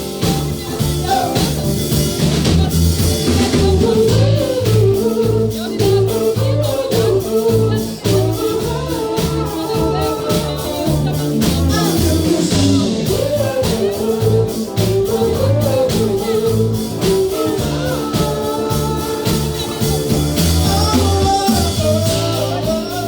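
Band playing a rock-soul cover song: a lead voice sings over a steady drum beat, bass and guitar.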